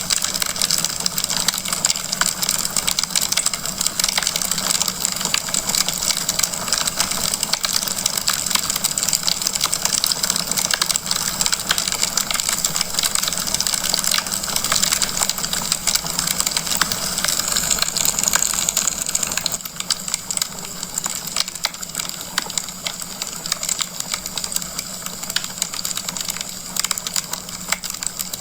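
Wood fire crackling in a fireplace: a dense stream of small pops and snaps over a steady hiss, easing a little about two-thirds of the way through.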